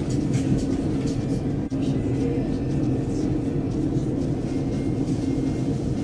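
Steady rumble of an electric passenger train heard from inside the carriage as it pulls into a station, with a few faint high clicks from the wheels and running gear.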